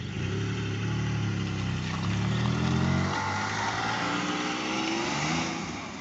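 A car driving past and accelerating away, its engine revving. The engine note drops about three seconds in, then climbs again before fading.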